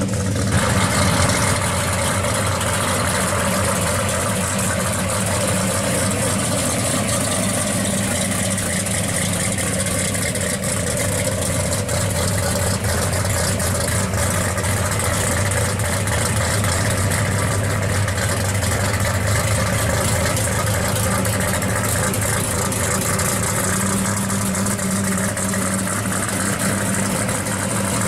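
1970 Plymouth 'Cuda pro street car's V8 running at a steady, loud idle with a deep low engine note as the car rolls slowly.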